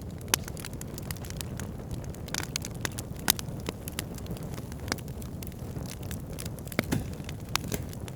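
Wood campfire burning: a steady low rumble of flames with frequent sharp crackles and pops from the burning wood. The two loudest pops come about a third of a second in and just after three seconds.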